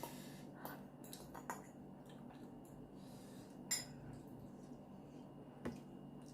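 Eating utensils clicking and clinking against a dish during a meal of noodles: several light clicks, the loudest a ringing clink a little past halfway.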